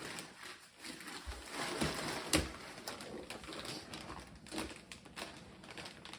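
Wrapping paper rustling and tearing as a long present is unwrapped, with crinkles and a sharp rip about two and a half seconds in.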